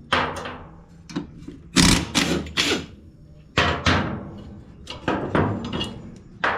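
A run of irregular metal clanks and knocks, each with a short ringing decay, as steel parts and tools are handled, with a cluster of quick clanks about two seconds in and again near four and five seconds.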